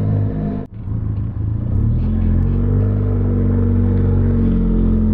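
Benelli TRK 502 X's parallel-twin engine running steadily under way. The sound cuts out abruptly for an instant less than a second in, then carries on.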